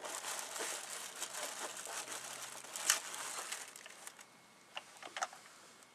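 Plastic packaging crinkling and crackling as a model railway coach is handled and lifted out of its box, with a sharper click about three seconds in. A few light clicks follow near the end.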